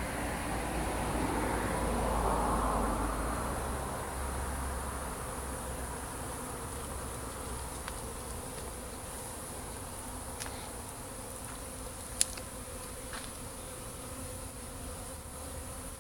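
Honeybee swarm buzzing, swelling louder for the first few seconds and then settling to a steady hum. One sharp click about twelve seconds in.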